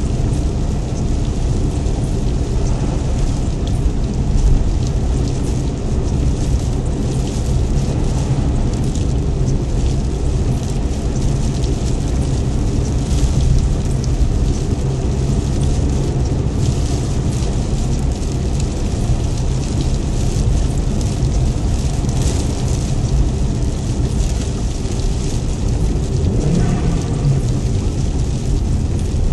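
Steady rain noise with a deep, even rumble underneath. Near the end a short pitched tone falls in pitch.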